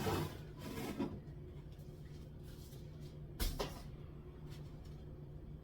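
Kitchen cupboard contents being handled: light clicks and knocks of containers against the shelf, the sharpest a quick double knock about three and a half seconds in.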